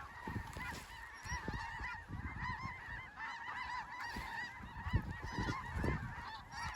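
A large flock of snow geese calling overhead: a dense, continuous chorus of overlapping short, high yelping calls. An uneven low rumble comes and goes underneath, loudest about five seconds in.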